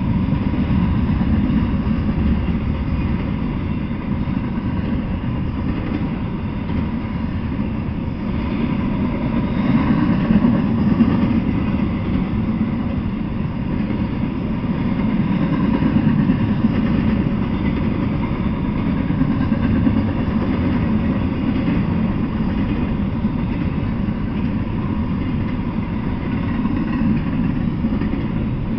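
Double-stack intermodal freight train rolling past: a steady rumble of steel wheels on the rails, swelling and easing a little as the cars go by.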